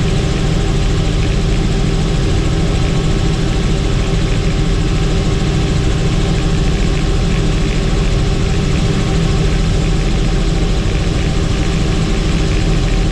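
Helicopter in flight: steady, loud rotor and turbine engine noise with several constant tones and no change in pitch.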